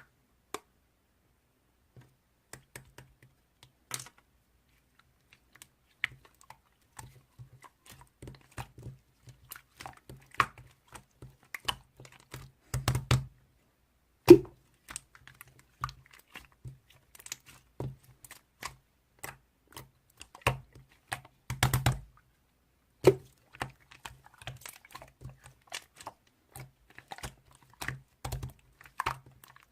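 Irregular quick clicks and taps that come in runs, in the manner of typing. Denser clusters of louder knocks come about 13 and 22 seconds in, and a single sharp knock at about 14 seconds.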